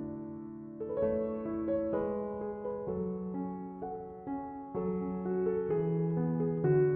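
Soft, slow solo piano background music, notes and chords held and changing every second or so.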